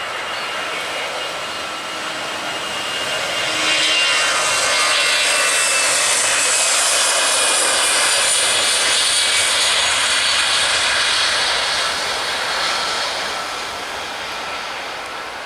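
Airliner's engines passing close by. The noise swells about three seconds in, stays loud for several seconds with a whine that sags slightly in pitch as it goes by, then fades away.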